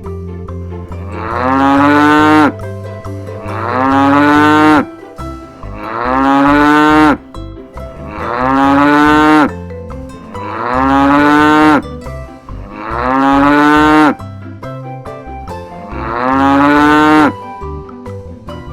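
A cow mooing six times, the same long moo repeated about every two seconds, each call rising briefly in pitch and then held. A quiet music bed runs underneath between the calls.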